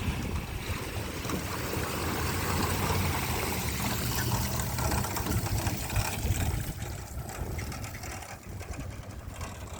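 Motorboat engine running as the boat pulls away, the sound weakening over the second half.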